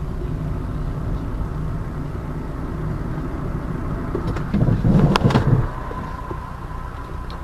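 A car's steady low rumble of engine and road noise, with a louder cluster of sharp knocks and thuds about four and a half to five and a half seconds in.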